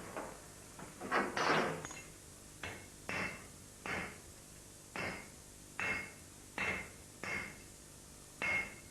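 Hand hammer striking 10 mm steel round bar on an anvil to bend it to a radius: about ten blows, roughly one a second, each with a short metallic ring. A louder, longer clatter comes about a second in.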